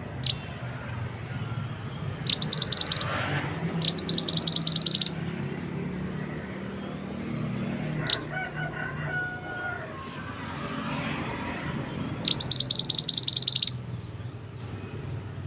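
Mantenan songbird singing: three fast, rattling high-pitched trills of about a second each, two close together near the start and one near the end, with a couple of short sharp single notes between them.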